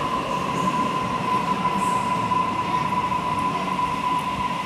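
Sydney Trains Waratah electric train set moving along the underground platform, a steady rumble with a high-pitched squeal from the wheels held throughout.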